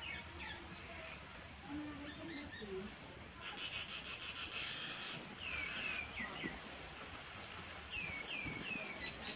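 Small birds chirping in the background: several quick runs of falling chirps, with a buzzy trill about halfway through.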